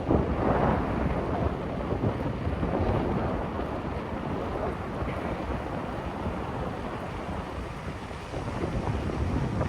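Wind rushing over the microphone of a camera carried on a bicycle at speed: a steady buffeting noise that eases slightly toward the end.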